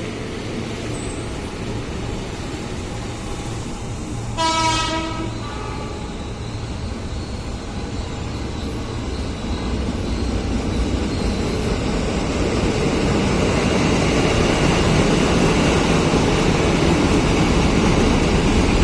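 Train horn sounds one short blast about four seconds in, over the steady rumble of a train, which grows louder through the second half as the train comes closer.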